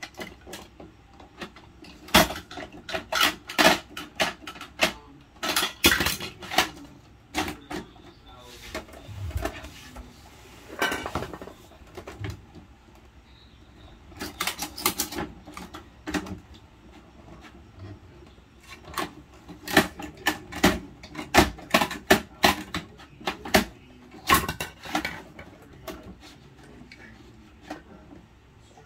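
Hard plastic clicking and clattering in bursts from a toy garbage truck and its toy bins being handled, with a dull thud about nine seconds in.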